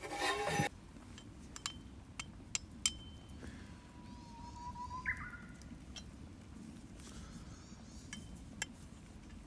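A loud brief rustle or scrape at the start, then a few sharp, ringing clinks of hard objects, like camp gear being handled.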